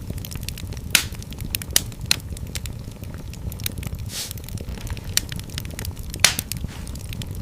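Wood fire burning in a fireplace, crackling with irregular sharp pops over a steady low rumble of flame. Two louder pops stand out, about a second in and near the end.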